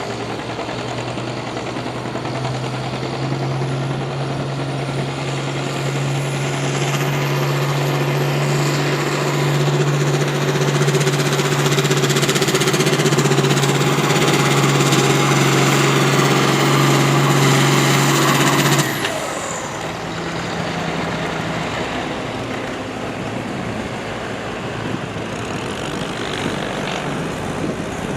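Farm tractor engine at full throttle pulling a weight sled. It grows louder over the first several seconds and holds a steady, strong note, then drops off abruptly about two-thirds of the way in as the throttle is cut at the end of the pull. The engine keeps running more quietly afterwards.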